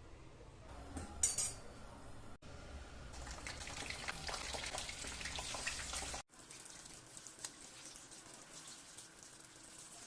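Kitchen work sounds: a sharp clink of dishes or utensils about a second in, then a dense patch of fine crackling and clicking for a few seconds. The sound cuts off abruptly twice.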